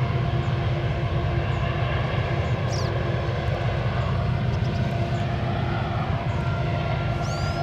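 Freight train passing with its diesel locomotive engines running in a steady low rumble and steel wheels on the rails. A few brief high chirps sound over it, and a steady higher tone joins about six seconds in.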